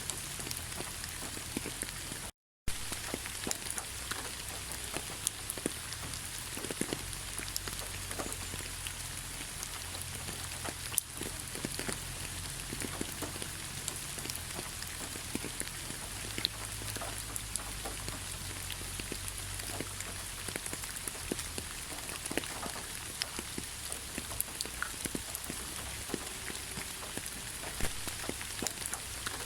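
Heavy rain falling steadily: a dense, even hiss with many small drop ticks. About two and a half seconds in, the sound cuts out completely for a split second, then resumes.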